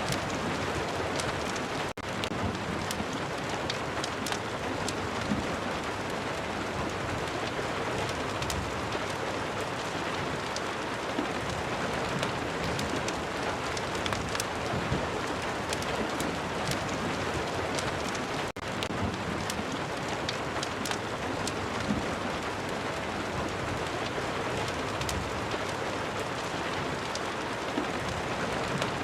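Steady rain, an even hiss dotted with many small sharp drop ticks. The sound dips for an instant twice, about two seconds in and again about eighteen seconds in.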